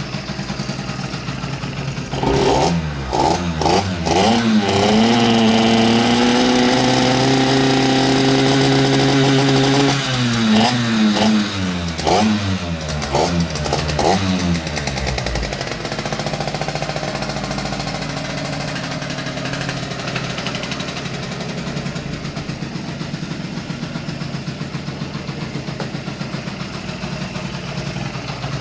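70cc scooter engine idling, then revved in a few quick blips, held at high revs for about five seconds, and blipped several more times before settling back to a steady idle about halfway through.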